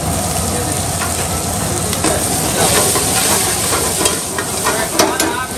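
Boneless chicken pieces frying with chopped onion and chilli in a pan, a steady sizzle as they are stirred. A few sharp metal clanks come after about four seconds, the loudest about five seconds in.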